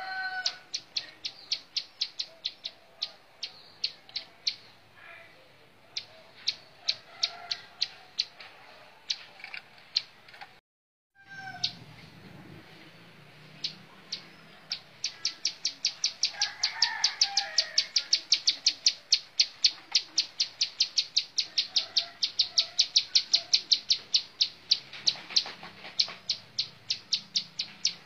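Ciblek sawah, a small prinia, calling a rapid series of sharp, high chips, about five a second. The chips come in broken runs at first, then as a steady, louder run through the second half.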